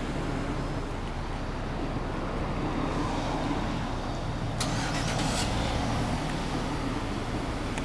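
A car engine running steadily, a low hum. A short burst of hiss comes about five seconds in.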